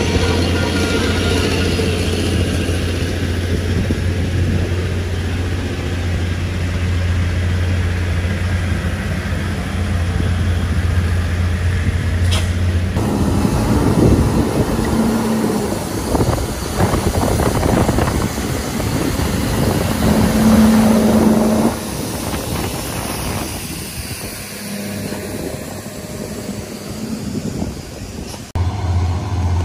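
Motor vehicle engines running, with a steady low engine drone for the first part. The sound changes abruptly about 13 seconds in and again near the end.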